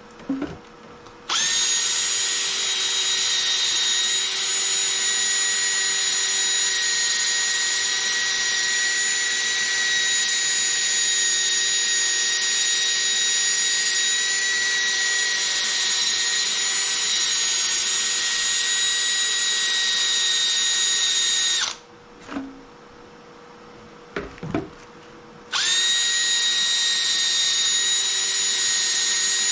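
Cordless drill spinning a sanding disc against a plastic headlight lens during wet sanding: a steady high-pitched whine. It stops about two-thirds of the way through, with a few short quiet sounds in the pause, then starts again a few seconds later.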